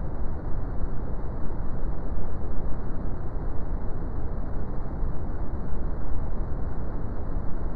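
Steady brown noise: a deep, even rumbling hiss, heaviest in the bass and with little treble, unchanging throughout.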